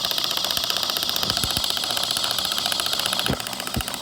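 A small motor running steadily with a fast, even rattle. A higher whine over it cuts off suddenly about three seconds in.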